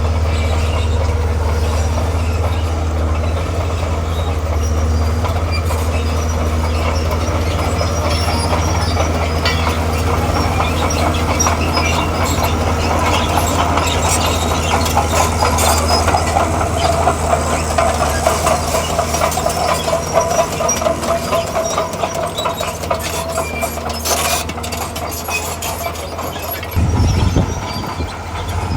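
D41P crawler bulldozer's diesel engine running under a steady low drone while its steel tracks clank and rattle, the clatter growing busier past the middle with a wavering track whine. The engine note surges briefly near the end.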